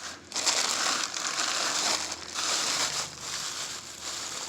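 Packing wrap crinkling and crumpling as a mineral specimen is unwrapped by hand, in uneven rustling stretches that ease off near the end.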